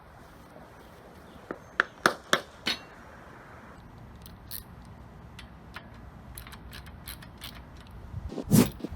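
Hand tools and metal parts clinking and tapping during assembly work: about five sharp clinks in quick succession over a couple of seconds, a scatter of lighter ticks, then a louder knock near the end.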